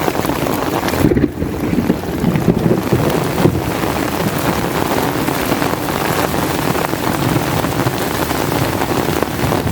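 Heavy rain pouring steadily, with a brief lull about a second in.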